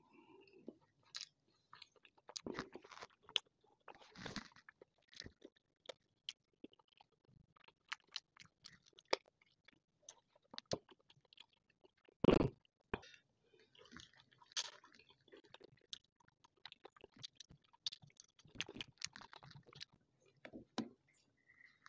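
Close-miked chewing and biting of chicken and flatbread, with short wet clicks and crackles scattered throughout and one louder knock about halfway through.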